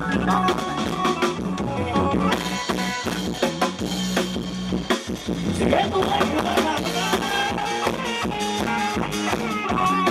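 Band music from a Thai rot hae parade sound truck, a drum kit keeping a steady beat under a melody.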